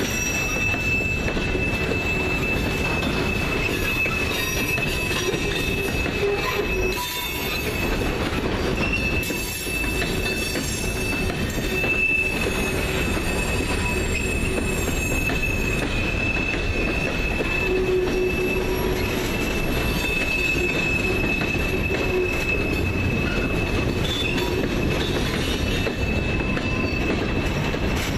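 Freight train of open-top gondola cars rolling past, its steel wheels giving a steady high-pitched squeal over a continuous rumble of wheels on rail.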